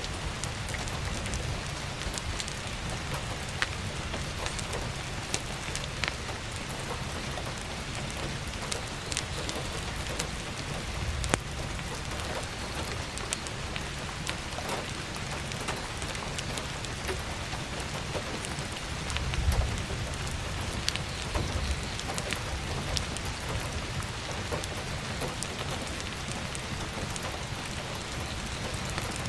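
Heavy rain falling steadily on an attic skylight, mixed with scattered sharp crackles and pops from logs burning in a wood stove. A brief low rumble comes about two-thirds of the way through.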